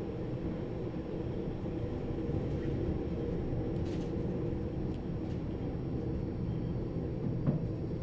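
Type 120A passenger coach running along the track, heard from inside: a steady low rumble of wheels on rails, with a few faint clicks and one short knock near the end.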